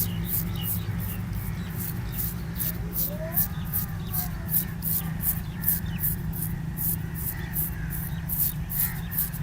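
A razor scraping across chest hair and skin in short, quick strokes, about three a second, over a steady low hum.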